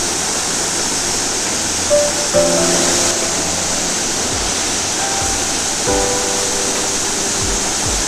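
Steady rush of a waterfall, overlaid with background music of short held notes.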